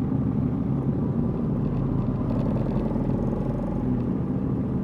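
Suzuki GSX-R 1000 inline-four motorcycle engine running at an even speed, a steady low drone with no change in revs.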